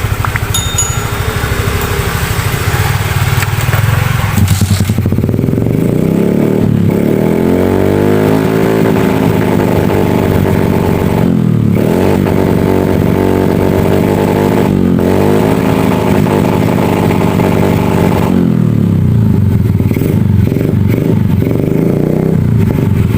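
Motorcycle engine running, steady for the first few seconds, then revved up and down several times.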